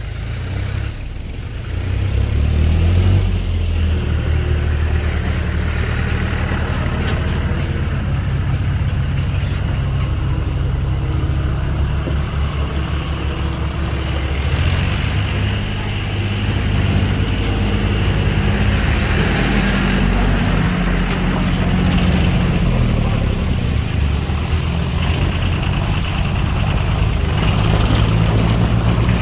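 Heavy vehicle's engine running under load on a muddy road. It grows louder about two seconds in and keeps going steadily, with its pitch shifting a little.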